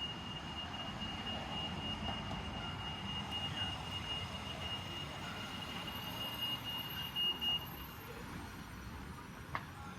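Street ambience with a steady rumble of traffic and a thin, steady high-pitched whine that stops about three-quarters of the way through.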